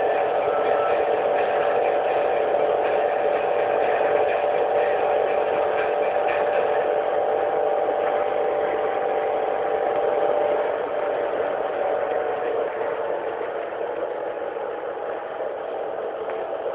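Fiat Punto ELX engine and road noise heard from inside the cabin at high motorway speed, a steady drone recorded on a phone. About ten seconds in it gets quieter and the engine note drops a little.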